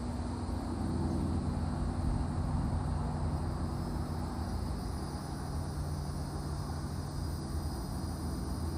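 Cicadas calling in a steady, high, continuous buzz. Under it runs a louder, steady low hum with a few held pitches, like an engine running.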